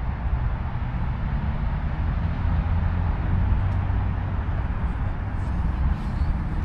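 Steady outdoor background noise, dominated by a low rumble, with a few faint ticks near the end.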